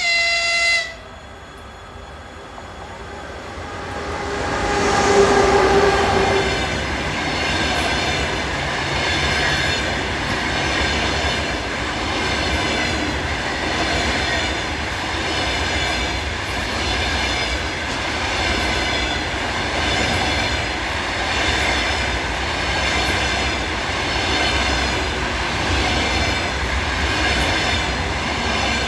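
A short horn blast at the very start, then an EP20 electric locomotive comes up and passes, followed by a long double-deck passenger train rolling by with a steady rumble and wheel noise that beats about every second and a half.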